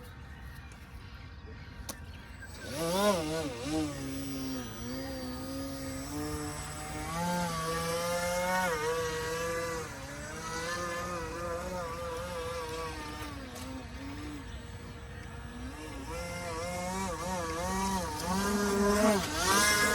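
Electric motor of a radio-controlled model boat running on the water, starting up about two and a half seconds in. Its pitch rises and falls with the throttle, and it grows louder near the end.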